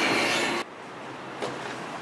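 CPTM suburban electric train passing close, its wheels running loudly on the rails, cut off abruptly about a third of the way in. A much quieter steady outdoor hiss follows, with one short click about halfway through.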